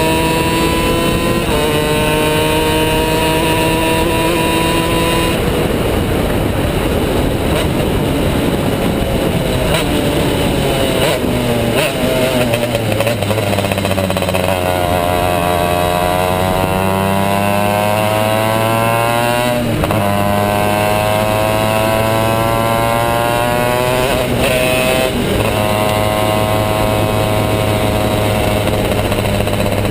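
Two-stroke superkart engine running hard, its pitch climbing through the gears with sudden drops at each shift, about 5 and 20 seconds in, and a longer dip and slow climb back up midway as it slows for a corner and accelerates out.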